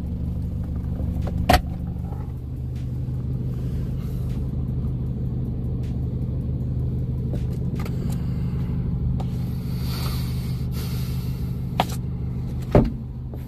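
Mazdaspeed 3's 2.3 L turbocharged four-cylinder engine idling steadily. A sharp click comes about a second and a half in, and two more near the end as interior fittings are handled.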